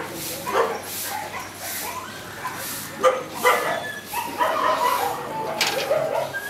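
Many dogs in shelter kennels barking and yipping over one another in short, overlapping calls, with some whimpering.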